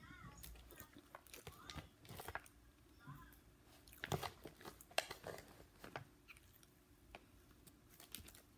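Close eating sounds: chewing and crunching of fried chicken, with irregular sharp clicks and smacks that are busiest about four to five seconds in.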